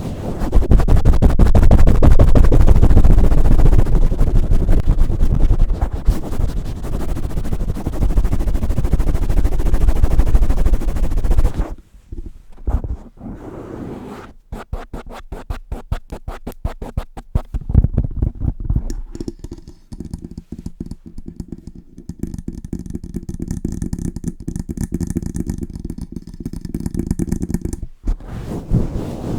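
Hands working directly on a Blue Yeti microphone: a dense, heavy low rubbing for about the first twelve seconds, then rapid separate taps and scratches.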